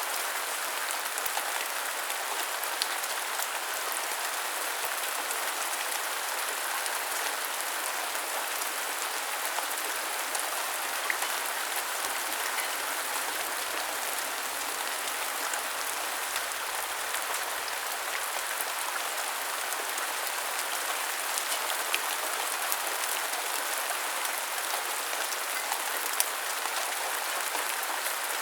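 Steady rain falling, an even hiss with scattered sharp taps of individual drops.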